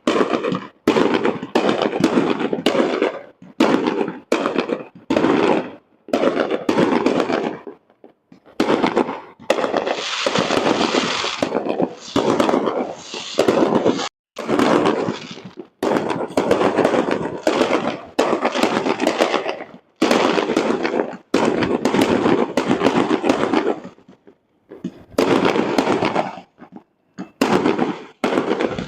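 Fireworks display: aerial shells bursting one after another in a rapid, irregular series of loud bangs, each dying away quickly, with a denser run of overlapping bursts about ten seconds in.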